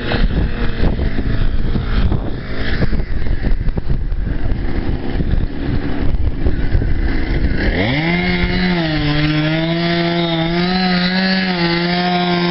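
Gusting wind buffets the microphone, then about two-thirds of the way in a two-stroke chainsaw revs up and runs steadily at high speed as a fallen tree is cut up.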